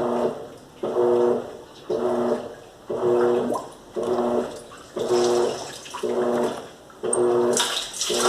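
Electrolux LAC13 top-loading washing machine agitating: the motor hums and the water sloshes with each stroke of the agitator, about once a second.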